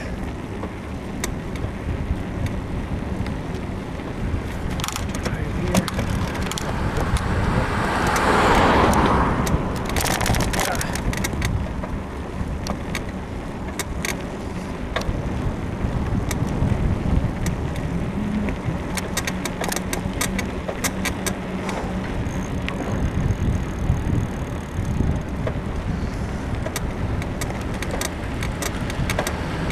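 Bicycle being ridden, with steady wind and tyre noise and frequent irregular creaks and clicks from the frame's rear suspension, which the rider thinks come from a worn suspension bushing. A louder rushing sound swells and fades about eight to ten seconds in.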